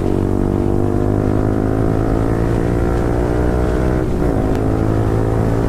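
Yamaha R15 V4's single-cylinder engine through a full-system Akrapovic exhaust, accelerating with its pitch rising steadily. About four seconds in there is a brief dip at a gear change, then it pulls again.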